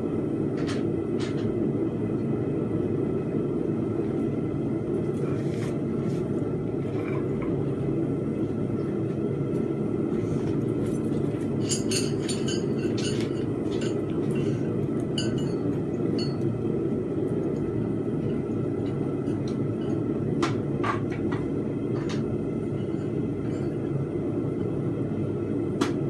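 Blacksmith's forge running with a steady rumble, with a few light metal clinks about halfway through and again near the end as iron bars are handled.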